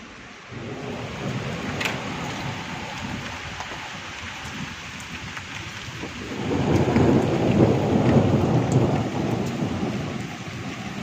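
Heavy rain falling steadily while thunder rumbles: a low rumble starts about half a second in, a sharp crack comes near two seconds, and a louder rolling peal swells a few seconds later before fading.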